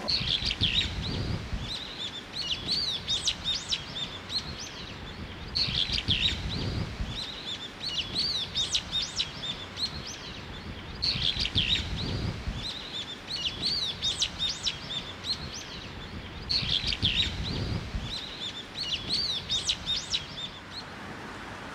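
Birdsong: rapid chirps and trills, the same run of calls repeating about every five and a half seconds, with a low rumble at the start of each run.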